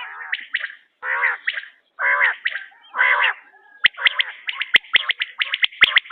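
Quail calling: a few short, raspy, bubbling bursts about once a second, then from about four seconds in a rapid run of sharp chirps mixed with hard clicks.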